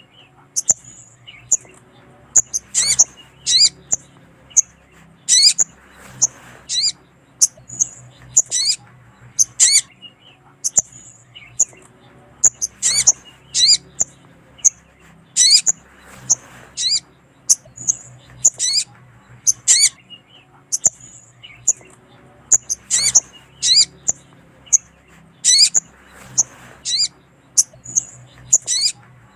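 Sogon (sogok ontong) bird calling: short, sharp, high chirps that sweep in pitch, repeated about once a second and sometimes in quick pairs. This is a female call played to lure males, over a faint steady low hum.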